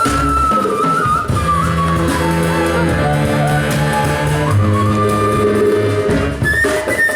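Live band music: a wavering, sliding lead melody over long held bass notes, with percussion hits near the start and again near the end.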